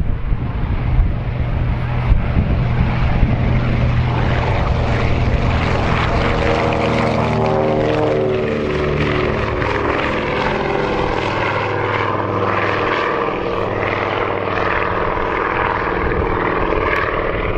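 Consolidated PBY-5A Catalina's two Pratt & Whitney R-1830 Twin Wasp radial engines at take-off power. The steady propeller drone drops in pitch about halfway through as the aircraft passes by.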